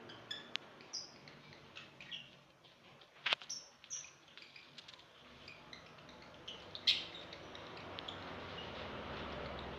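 Lovebirds chirping in short, scattered high calls, with two sharp clicks, one about three seconds in and one near seven seconds. A low steady rumble grows louder in the second half.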